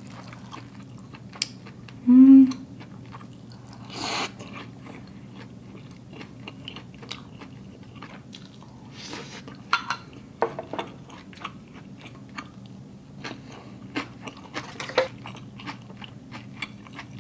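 Close-miked chewing and biting of a soup-soaked fried tofu puff from a hot pot: wet mouth noises and small clicks with closed-lip chewing. There is a short vocal sound about two seconds in and a brief noisy rush of a bite near four seconds.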